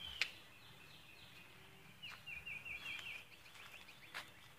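A songbird singing faintly: a phrase of quick repeated chirps, about six a second, starting about two seconds in. A sharp click comes just after the start and another about four seconds in.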